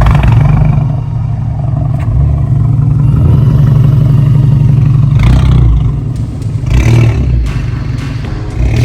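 A car engine running loud with a deep steady rumble, revved up briefly about five seconds in and again about seven seconds in.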